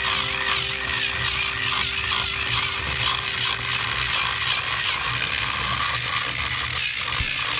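Battery-powered toy train engines running on a wooden track, their small gearboxes whirring with a steady, rapid mechanical clatter.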